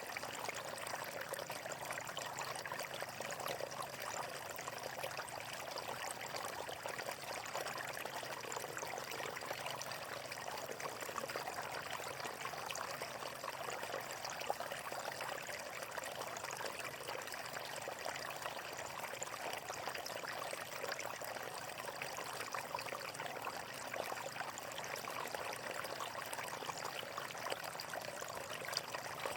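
Running water flowing steadily, with a constant fine splashing.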